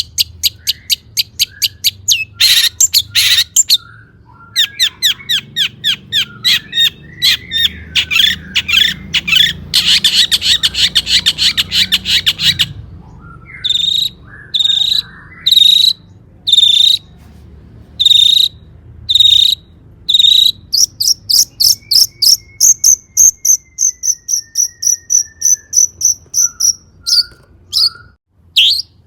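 Long-tailed shrike singing loudly and variedly: fast, harsh chattering rattles, then a run of separate sharp notes about one a second, then a quick high trill.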